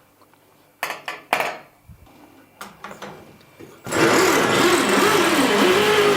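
A few short knocks and clicks of handling, then about four seconds in an electric drill starts and runs steadily under load, its pitch wavering, on a newly fitted bit tried in place of a hot, worn one.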